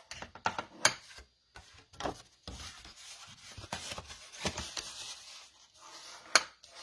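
Burnishing the scored folds of a cardstock card base: a tool rubbed in repeated scraping strokes along the creases, with a few sharp taps.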